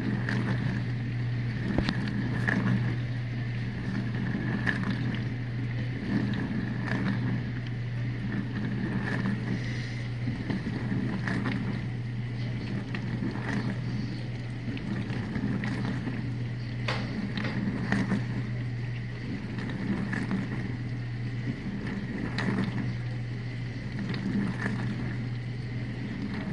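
Whirlpool dishwasher running with its wash pump on: a steady hum and a high whine, with water spraying and splashing irregularly against the dishes inside.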